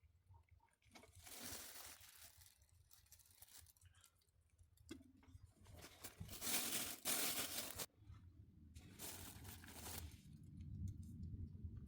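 Three bursts of rustling, crunching noise, the loudest lasting about two seconds around the middle, over a faint steady low hum.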